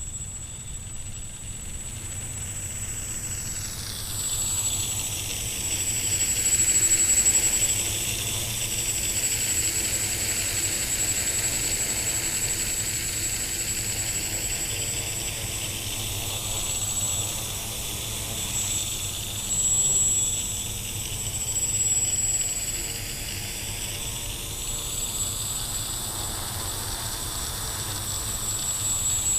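Xaircraft X650 quadcopter's electric motors and propellers buzzing in flight, with a steady high whine. The sound swells and fades as the quad moves about, loudest about seven seconds in and again around twenty seconds.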